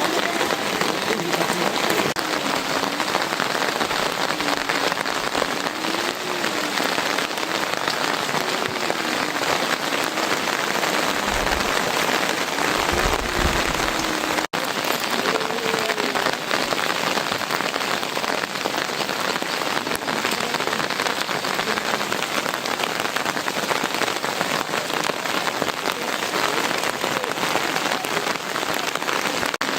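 Heavy rain falling steadily, an even hiss, with a split-second dropout about halfway through.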